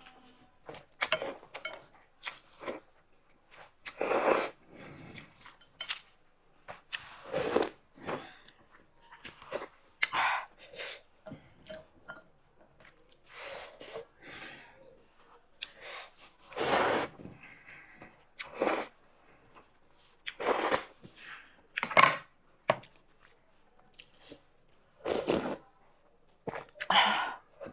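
Close-miked mukbang eating of veg momos and thukpa noodle soup: short noisy bursts of biting, chewing and slurping every one to three seconds, with quiet gaps between.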